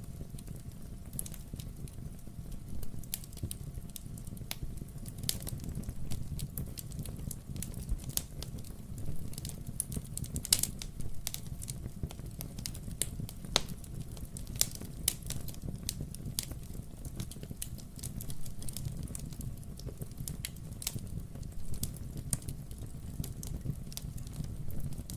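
Wood fire burning in a fireplace: a low steady rumble with many irregular sharp crackles and pops. The loudest pop comes about ten seconds in.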